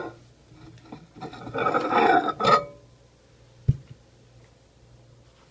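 A ceramic mug being taken out of a microwave: about a second of scraping and handling, then a single sharp knock as it is set down.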